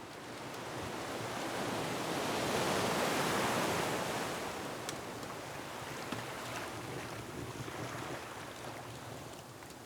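An ocean wave surging in, loudest about three seconds in, then easing into a steady wash of surf, with a few scattered pops from a crackling wood fire.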